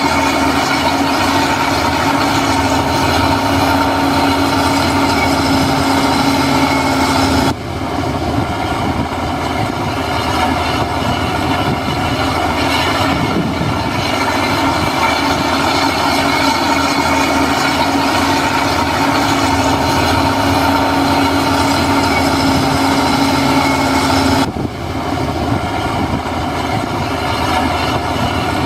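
Heavy diesel earthmoving machinery running steadily, with a constant whine over the engine noise. The sound breaks off and changes abruptly twice, about a third of the way in and again near the end.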